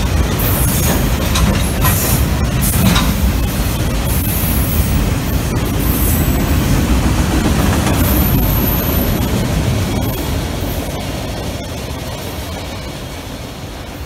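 Freight train of autorack cars rolling past: a steady rumble of wheels on rail, with sharp clanks and brief high-pitched wheel squeals in the first few seconds. The sound fades over the last few seconds as the rear of the train moves away.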